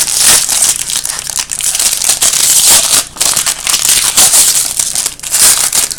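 A wrapper on a pack of trading cards being torn open and crumpled in the hands: loud crinkling and rustling made of many quick crackles, briefly easing twice.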